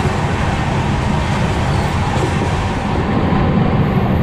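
Taj Express passenger coach running at speed on the rails: a steady, loud rumble and rush of wheels on track.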